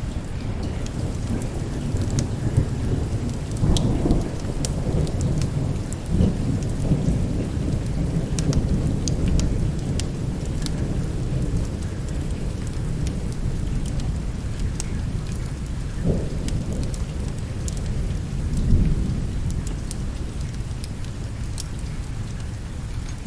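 Thunderstorm: steady rain with low rolling thunder that swells several times, over scattered sharp ticks.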